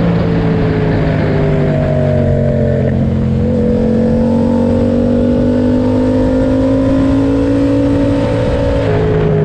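Yamaha MT-07 parallel-twin engine running through an SC Project aftermarket exhaust under way. The pitch drops at an upshift about three seconds in, climbs slowly as the bike accelerates, and drops again at another upshift near the end, with wind rumble underneath.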